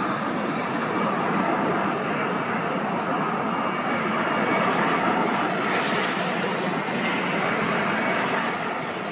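Boeing 747-400's four turbofan jet engines, a steady roar.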